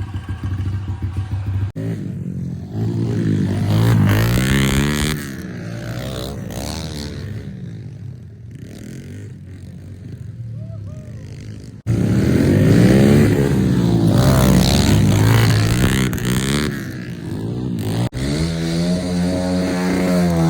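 Small pit bike engine revving up and down as it is ridden, its pitch rising and falling again and again. The sound breaks off sharply and jumps three times, about 2, 12 and 18 seconds in.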